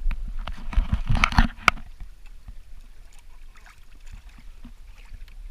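Water sloshing and gurgling along the hull of a Hobie Tandem Island sailing kayak under way, with a cluster of sharp knocks and splashes in the first two seconds, loudest about a second and a half in.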